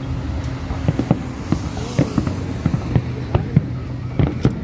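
Fireworks display: a rapid, irregular run of sharp bangs from exploding shells over a continuous rumble, with a faint steady low hum underneath.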